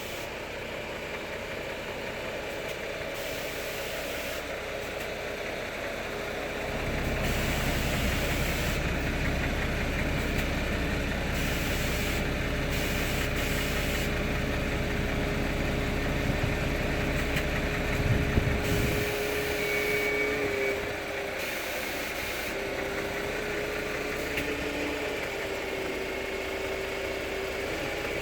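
Tram running, with a steady electric whine throughout. A heavier low rumble sets in about seven seconds in and stops fairly suddenly after a short louder burst some eighteen seconds in.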